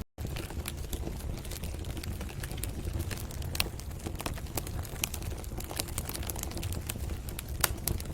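Wood fire in a fireplace crackling and popping over a steady low rumble of flames, with two louder pops, one about halfway through and one near the end. The sound drops out for a split second at the very start.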